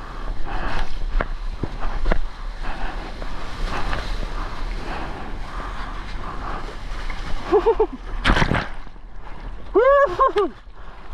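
Sea water sloshing and splashing around a GoPro in the surf, with wind on the microphone and a loud splash about eight seconds in. Two short voice calls come just before and shortly after the splash.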